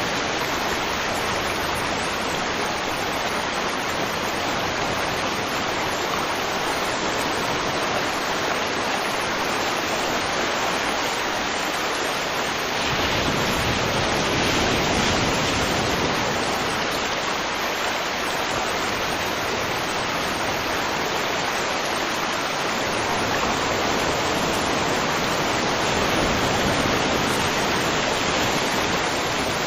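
River water flowing and rushing steadily, a dense even wash that swells a little about halfway through and again near the end.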